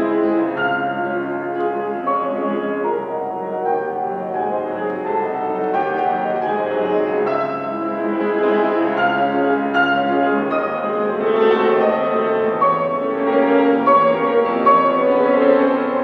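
Solo piano playing classical music: a continuous, dense passage of sustained notes and chords.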